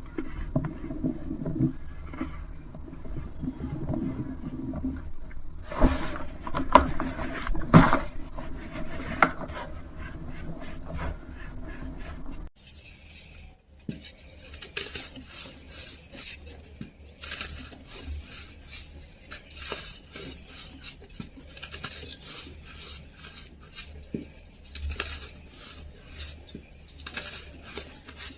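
A dry, brittle material being crumbled and crushed by hand, with dense crunching and a few louder crunches partway through. About halfway through it cuts suddenly to a quieter, finer crumbling.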